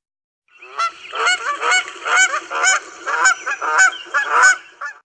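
Geese honking: a run of repeated, overlapping honks, about two a second, starting about half a second in and stopping just before the end.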